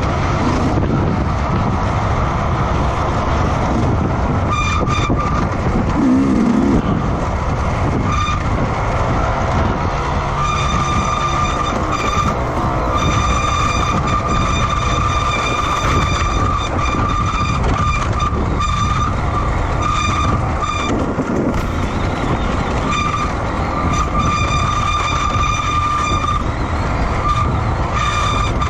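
Motorcycle racing noise: a continuous loud rumble of engines and wind, with a high steady whine that cuts in and out repeatedly at the same pitch.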